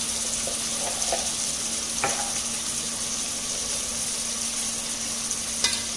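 Sliced onions, green chillies and ginger-garlic paste sizzling steadily in hot oil in a steel pot, with a couple of light clicks and a steady low hum underneath.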